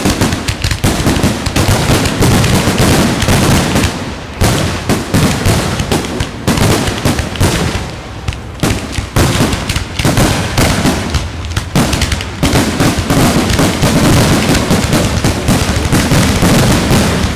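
Aerial fireworks shells bursting in rapid succession, a near-continuous barrage of booms and crackle with only brief lulls.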